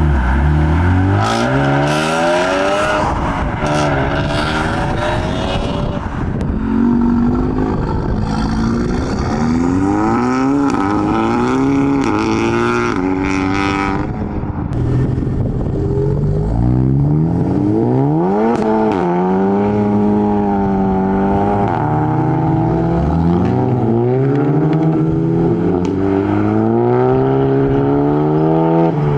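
Modified car engines revving hard and accelerating away one after another. The pitch climbs and drops again and again as the cars rev and shift gears.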